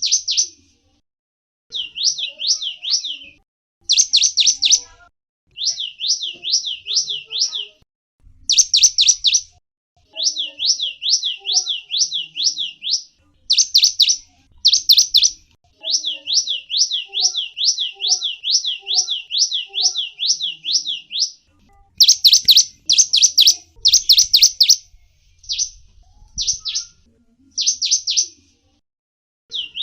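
Small songbird calling in rapid runs of high, downward-sweeping chirps, about four to six a second, each run lasting a second or two with brief pauses between.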